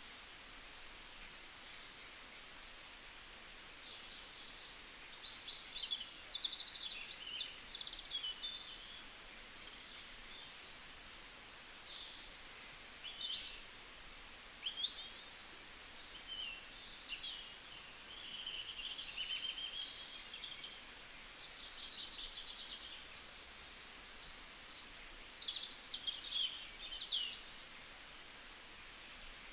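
Small birds chirping and twittering in a busy chorus of short, high calls and quick trills.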